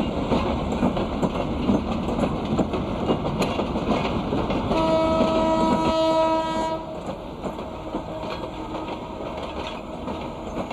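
Train passing close by, its running noise loud and steady, with the horn sounding one held note for about two seconds midway. The noise then drops to a lower level.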